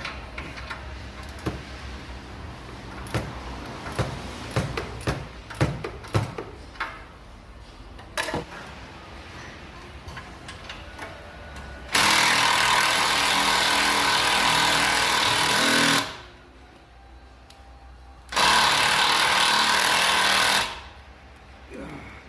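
Impact wrench run in two bursts, about four seconds and then about two seconds, after a stretch of light clinks and knocks from hand tools.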